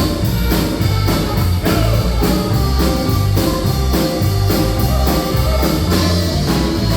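Live polka band playing a polka, with a steady bouncing beat of about two strokes a second carried by bass and drums under the melody instruments.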